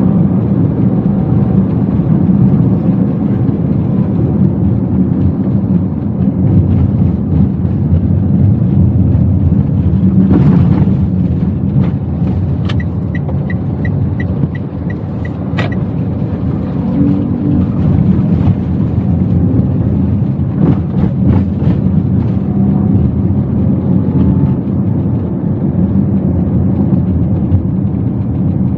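Inside the cabin of a Toyota Wigo on the move: a steady low rumble of engine and road noise. About halfway through, a run of about eight short, evenly spaced high beeps sounds over it.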